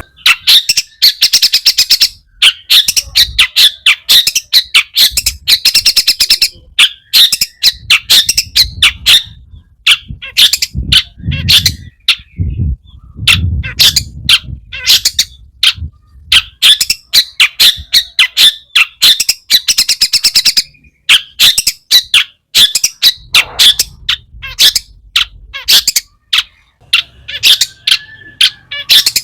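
Long-tailed shrike (cendet) singing hard: rapid strings of sharp, chattering notes in phrases of a second or two with short pauses between. It is a busy song full of mimicked notes (isian).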